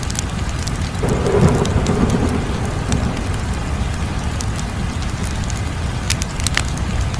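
Wood fire burning with a steady low rumble and scattered sharp crackles and pops, a few loud pops close together near the end.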